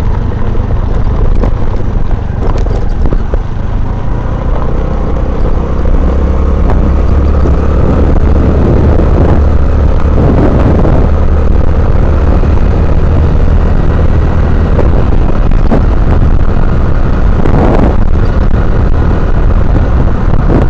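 Honda Navi mini bike's small single-cylinder four-stroke engine running under way, with a steady low drone that gets a little louder about five seconds in.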